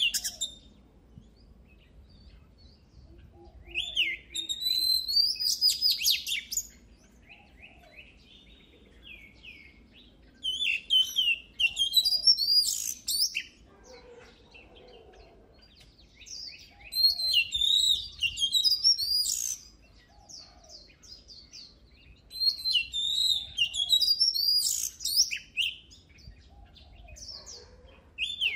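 Oriental magpie-robin singing: loud phrases of varied, rapidly changing whistled notes, each lasting a couple of seconds and repeated about every six seconds with short pauses between.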